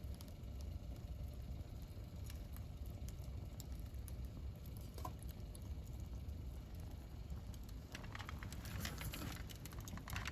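Wood campfire burning: scattered sharp pops and crackles over a low steady rumble, with a quick run of crackling near the end.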